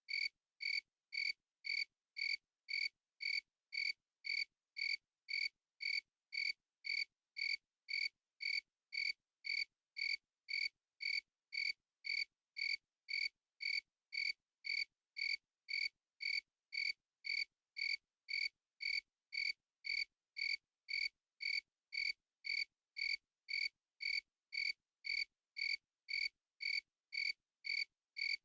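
Cricket chirping in an even, unbroken rhythm of about two chirps a second, each chirp a short high-pitched trill with silence between.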